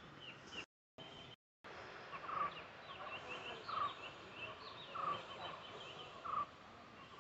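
Birds calling: a loud call repeats about every second and a half over many quieter, higher chirps. The sound drops out twice briefly near the start.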